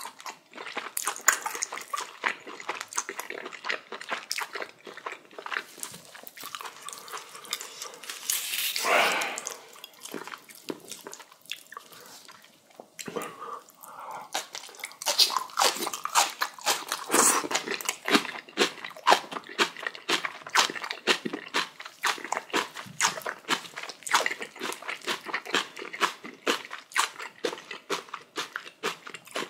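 Close-miked chewing of kimchi and boiled pork: rapid, wet crunches and mouth smacks, with a brief breathy rush about nine seconds in.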